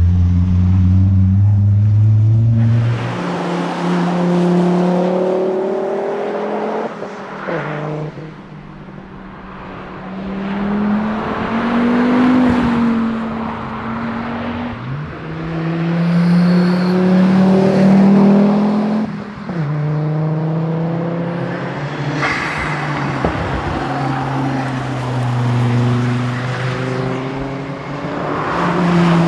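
Volvo 850R's turbocharged five-cylinder engine at full effort on a rally stage, its pitch climbing and then dropping at each gear change, several times over, with the engine easing off and picking up again between.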